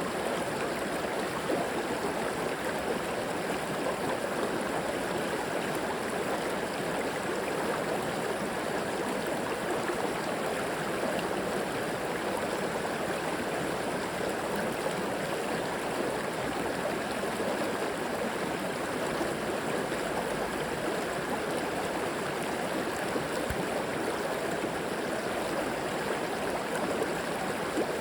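Shallow river flowing steadily over rocks, a constant rushing and babbling of water.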